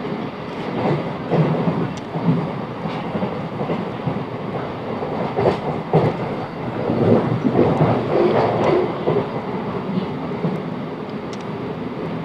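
Class 707 Desiro electric multiple unit running along the line, with a steady rumble and wheels clattering and knocking irregularly over the track. The knocks are thickest in the middle of the stretch.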